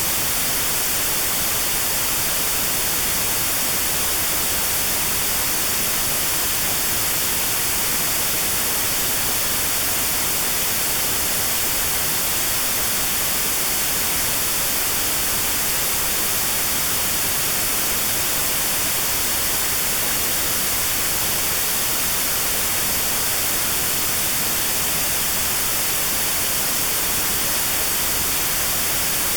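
Steady white noise with a narrow band cut out around 4 kHz: notched noise for tinnitus sound therapy. The hiss is even and unchanging, bright in the highs.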